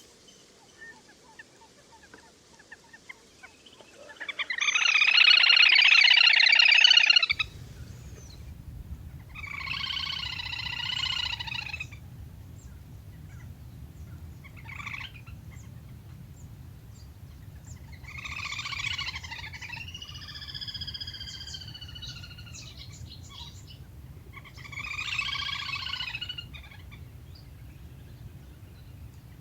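Recorded calls of lesser whistling ducks (le le): repeated bursts of whistled calling a second or two long, the loudest about four seconds in. After an abrupt change about seven seconds in, a steady low hum runs beneath the later bursts.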